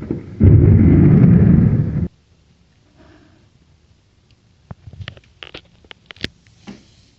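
A loud, heavy thunderclap overloads the microphone for under two seconds, then cuts off abruptly. Several sharp clicks follow in near quiet.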